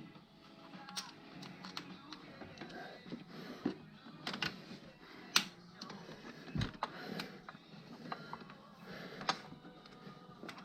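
Irregular clinks, clicks and knocks of hand tools working on metal, with one dull heavier knock a little past the middle.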